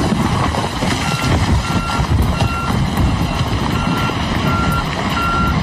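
Heavy machine's reversing alarm beeping at a steady pitch, starting about a second in with a short pause midway, over the loud rumble of its engine.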